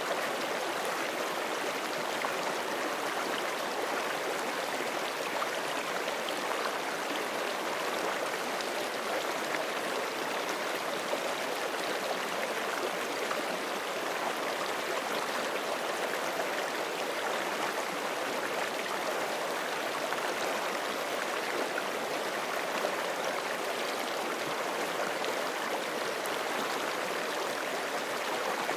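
Forest creek flowing steadily over rocks, a constant rush of running water.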